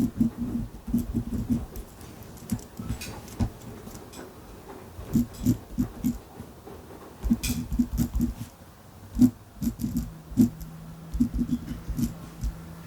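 Ballpoint pen writing on a notebook, its strokes making soft knocks in quick irregular clusters, with a few light clicks. A low steady hum comes in about ten seconds in.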